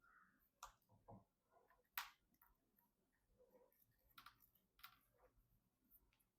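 Near silence with faint, scattered clicks and taps, the loudest about two seconds in.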